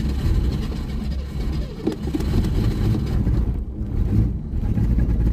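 1981 Mercury Capri's carbureted engine running rough and unevenly just after catching on a cold start, held on the throttle. It will not idle on its own because the carburetor's cold-idle circuit is not working.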